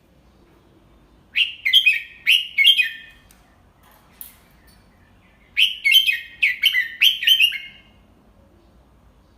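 Red-whiskered bulbul singing two short phrases of quick whistled notes, about four seconds apart. It is a tutor bird's song in the 'double 3' (เบิ้ล3) pattern that keepers use to teach young caged bulbuls.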